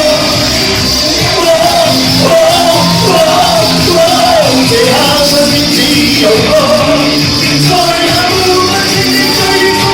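A pop-rock song: a lead voice sings a wavering melody over a full band backing.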